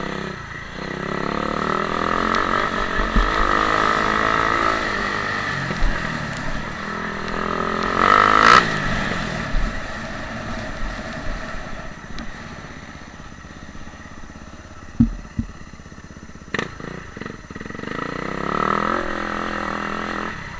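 Motocross bike engines revving up and down as the bikes ride the track. One passes close about eight seconds in, the loudest moment, with its pitch sweeping as it goes by. Two sharp knocks come later.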